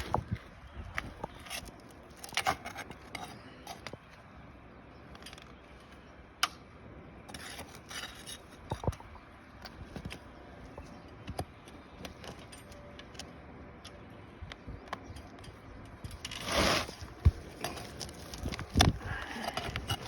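Scattered clicks, scrapes and crackles of asphalt shingles being pried up and worked loose on a roof, with a longer scraping rustle about 16 to 17 seconds in.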